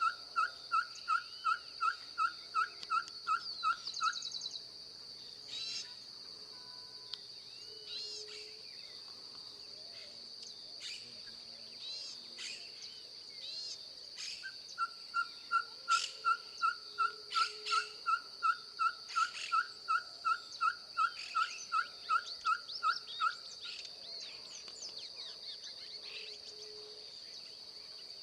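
Ferruginous pygmy-owl (caburé) singing: a long series of evenly spaced whistled toots, about three a second. The first run stops about four seconds in and a second run goes from about fifteen to twenty-three seconds. A steady high insect drone and scattered chirps of other birds sound behind it.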